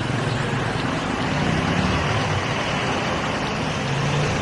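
Steady city street traffic: a constant mix of vehicle engines and road noise, with a low engine hum that wavers slightly.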